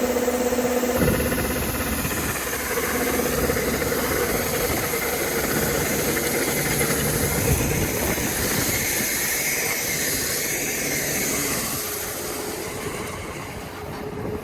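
Kubota ER470 combine harvester running, a steady mechanical noise with a high hiss over it.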